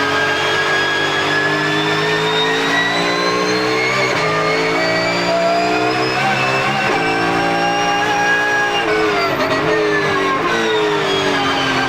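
Porsche GT3 Cup race car's flat-six engine heard on board, pulling slowly up in pitch through the gears with brief shift breaks, then dropping in pitch in several steps near the end as it downshifts. A whine of the gears sits high above the engine note.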